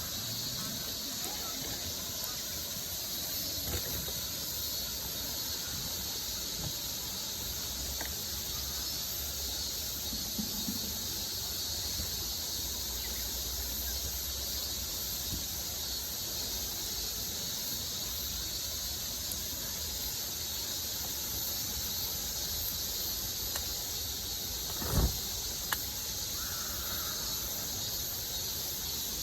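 A river's steady rush with an even, high-pitched hiss over it. A few faint clicks come through, and there is one sharp knock a few seconds before the end.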